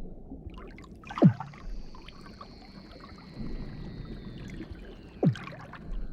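Seals calling underwater: two sharp calls sweep steeply down in pitch, about a second in and about five seconds in, over a long thin whistle that slides slowly downward.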